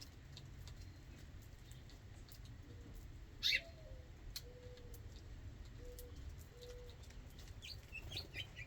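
Outdoor birdsong with a dove cooing: a short sliding note, then three drawn-out low coos. A single loud, short high bird call comes just before the coos, and small chirps follow near the end.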